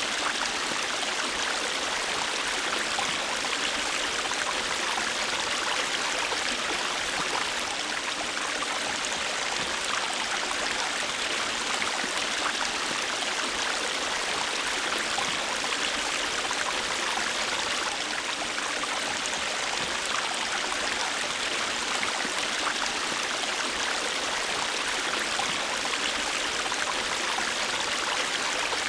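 A river's flowing water, a steady rushing with fine splashing and no change in level.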